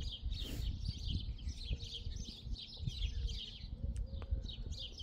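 Small birds chirping and twittering busily and without pause, over a low rumble.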